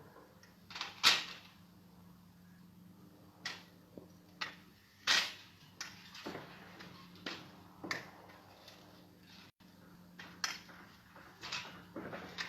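A series of irregular short swishes and snaps, about a dozen, the loudest about a second in and about five seconds in, over a faint steady hum.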